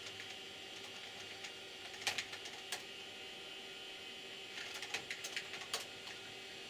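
Scattered keystrokes on a computer keyboard in short clusters, about two seconds in and again from about four and a half to six seconds in, over the steady hum of the running 486 PC.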